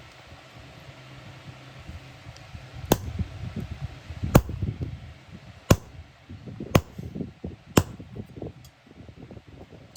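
Hammer striking an iron workpiece: five sharp blows roughly a second apart, starting about three seconds in, with lighter knocks and handling noise between them.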